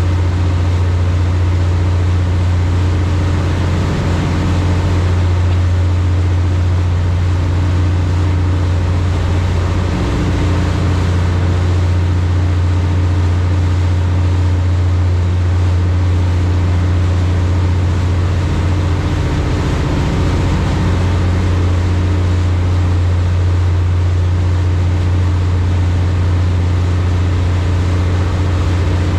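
High-speed passenger boat's engine running steadily: an even, loud low drone with a steady hiss over it.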